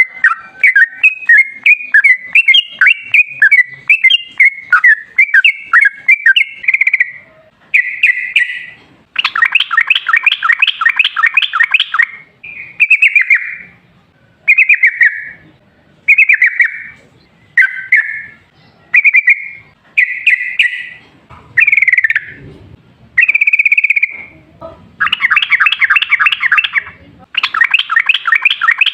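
Yellow-vented bulbul singing loud, bubbly chirping phrases. A quick run of notes opens, then short phrases come about every second or so. Long rapid rattling trills (the 'ropel' run) come about a third of the way in and again near the end.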